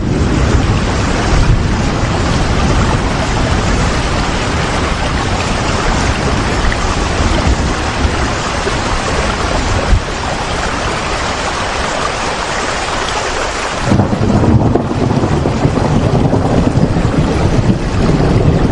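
Steady heavy rain, a dense even hiss. About fourteen seconds in it turns duller, with a low rumble coming to the fore.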